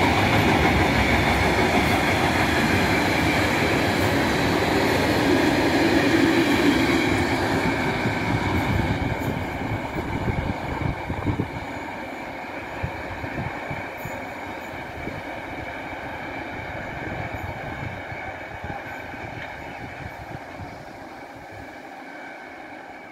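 Long freight train of tank wagons rolling past, its wheels clattering and squealing on the rails. The sound is loud for the first several seconds, then fades steadily as the end of the train moves away.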